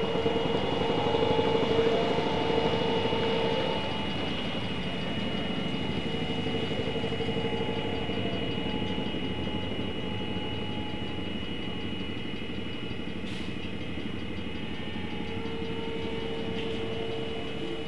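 A train running on rail track, with a steady high whine and a wavering tone over a continuous rumble, loudest in the first few seconds.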